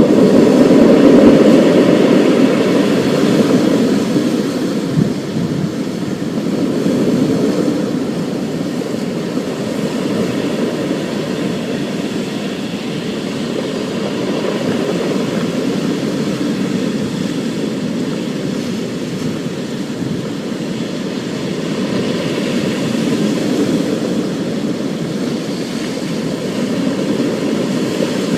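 Thunderstorm: a deep rolling rumble that is loudest in the first few seconds, then ebbs and swells slowly, over a steady hiss of rain.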